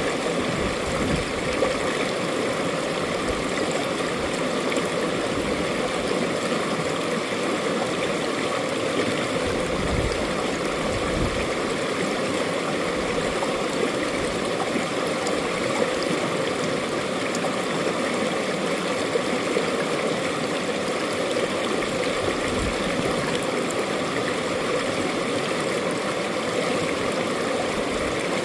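Mountain valley stream flowing over rocks: a steady rush of running water.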